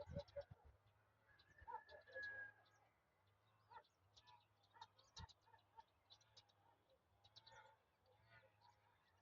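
Faint chirping of small birds, many short high chirps throughout. A few lower calls come near the start, about two seconds in and about eight seconds in, over a faint steady low hum.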